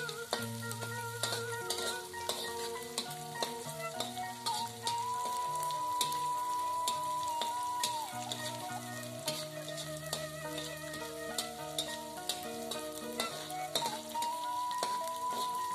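Small dried anchovies (teri medan) sizzling and crackling in hot oil in a metal wok, stirred with a metal spatula that scrapes and taps the pan. A soft background melody of held notes plays underneath.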